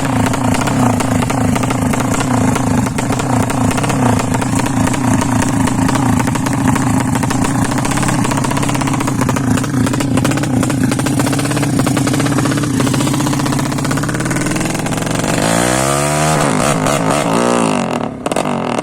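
Yamaha Jupiter-based 200cc bore-up motorcycle engine, being tuned, running loud at a steady held speed. About fifteen seconds in it is revved up and down a few times, and then the level drops near the end.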